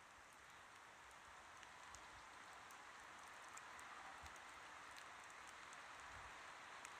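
Campfire burning quietly: a soft, steady hiss with sparse faint crackles and pops from the burning wood.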